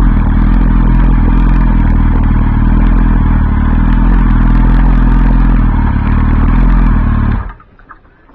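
Yamaha R1 RN19's inline-four engine running at low revs through an Akrapovic silencer with the catalytic converter removed, then switched off about seven and a half seconds in, cutting out suddenly.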